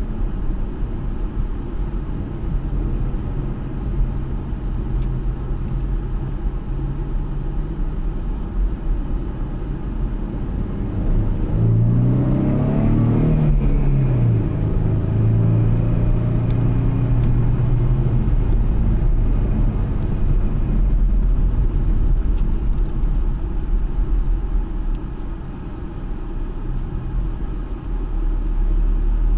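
Ford Mustang 3.7-litre V6 and its tyres heard from inside the cabin, cruising at a steady engine note over a low rumble. A little before halfway the engine pitch climbs and dips, then holds louder for several seconds before easing back.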